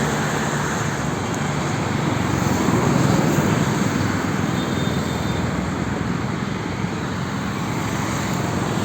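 Steady road traffic noise: vehicles passing with a continuous rumble of engines and tyres, swelling a little about three seconds in.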